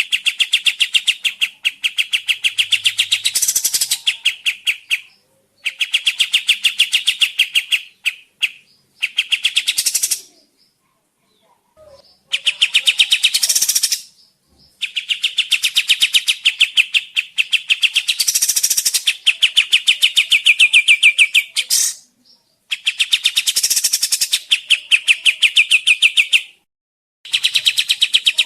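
Kapas Tembak songbird singing long, rapid chattering trills of evenly repeated notes, about ten a second. The trills come in bouts of a few seconds with short pauses between them.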